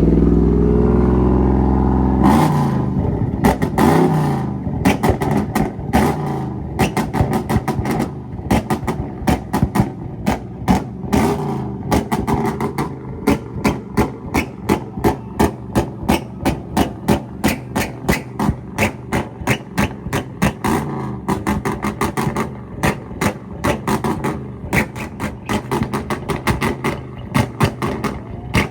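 Tuned car engine revving, then a long run of sharp exhaust pops and bangs, about two a second, from a flame tune: unburnt fuel going off in the exhaust.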